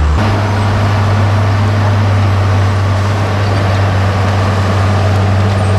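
Case 850K crawler bulldozer's diesel engine running loud and steady; its pitch steps up just after the start, as the engine is throttled up, then holds.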